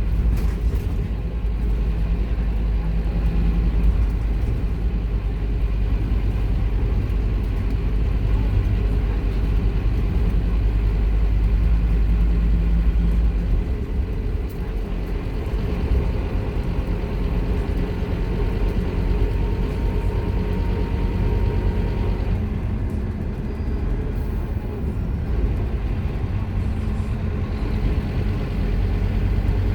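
Diesel engine of a Scania K230UB Omnilink single-deck bus running under way. Its heavy low drone eases off about halfway through, and a faint steady whine holds for several seconds after.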